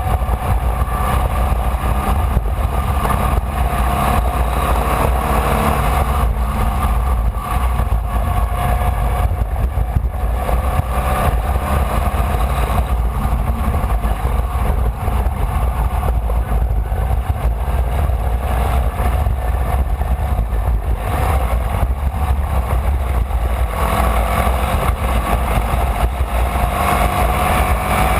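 Formula Vee race car's air-cooled Volkswagen flat-four engine running hard at racing speed, heard from onboard, its revs rising and falling through the lap.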